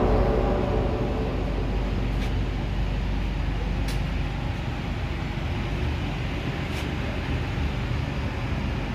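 Steady low rumble of the double-decker train running, with a few faint clicks spread through it.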